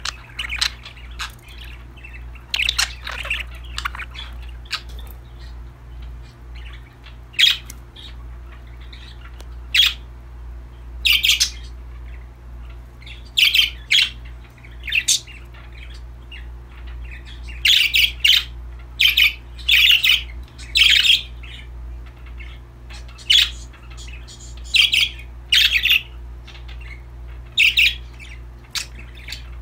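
Pet budgerigars chirping in short, sharp calls at irregular intervals, denser in the second half, over a steady low hum.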